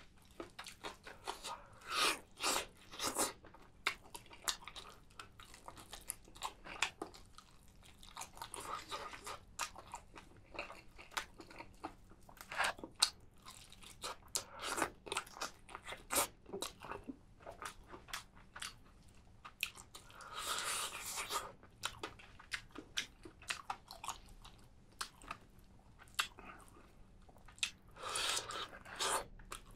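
Close-miked eating of spicy fried chicken: steady biting, crunching and chewing, with many sharp little clicks and a few longer breathy rushes scattered through.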